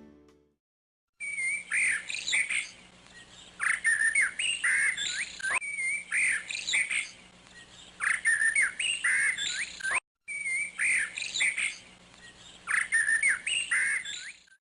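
Birds chirping and tweeting in quick, rising and falling calls. The same short sequence repeats about three times, starting abruptly about a second in and cutting off just before the end.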